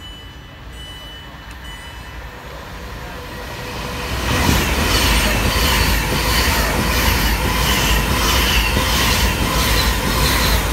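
Class 390 Pendolino electric train approaching and running through the station at speed. Its rumble builds and turns loud about four seconds in as the carriages pass, with a regular wheel clatter about twice a second.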